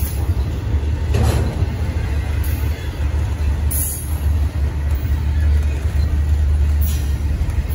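A double-stack intermodal container train's articulated well cars rolling past at close range: a steady low rumble of wheels on rail, broken by a few brief sharp sounds a couple of seconds apart.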